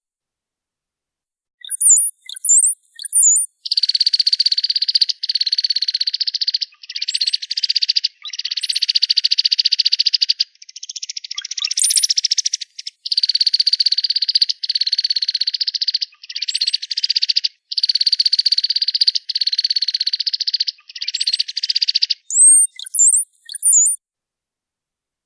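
A cowbird's song: a few high, thin sliding whistles open and close the phrase, and between them comes a series of long, buzzy rapid trills, each lasting a second or two, with short gaps.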